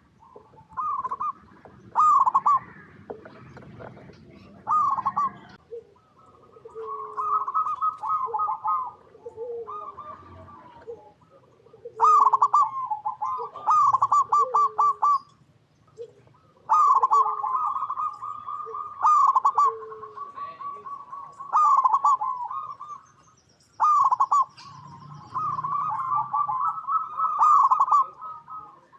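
Zebra doves (perkutut) cooing: repeated bursts of rapid, trilling coos every two to three seconds, with shorter, lower coos in between.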